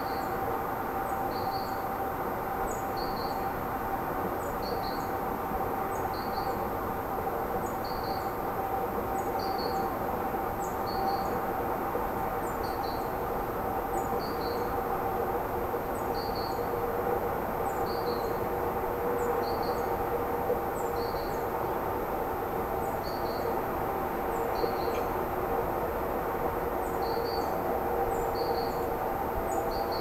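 A bird calling over and over, a short high chirp about every second and a half, over a steady hum with lower humming tones.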